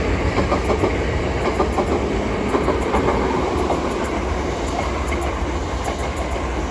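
A Southeastern Class 465/466 Networker electric multiple unit passing through the station, its wheels making a steady rolling rumble on the rails.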